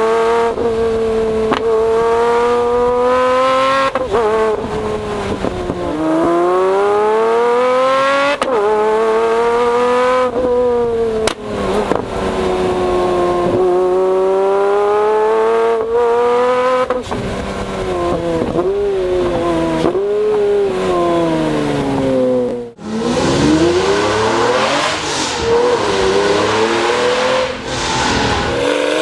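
Pagani Zonda Tricolore's AMG V12 exhaust, picked up close to the tailpipes, pulling hard through the gears. Its pitch climbs with each pull and breaks off at every shift, and it falls away when the driver lifts. About three-quarters of the way through the sound cuts out for a moment, then comes back rougher and noisier.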